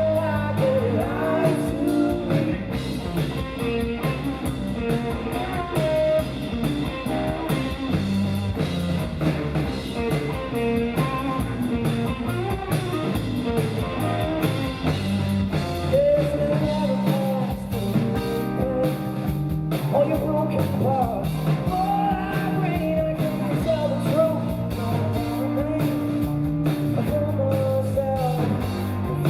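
Live blues-rock band playing a song: a singer over guitar and a drum kit.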